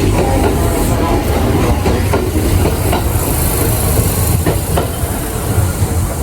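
Kintetsu 23000 series Ise-Shima Liner electric train running on the track: a steady rumble with the wheels clicking over rail joints at uneven intervals. A brief high hiss comes about three seconds in.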